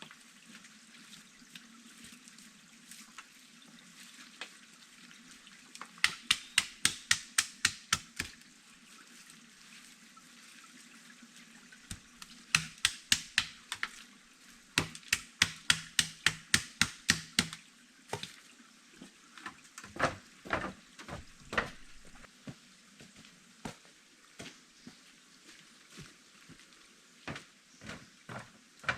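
Quick runs of chopping strikes, about five a second, a blade hitting wood, in three bursts, then slower scattered knocks near the end.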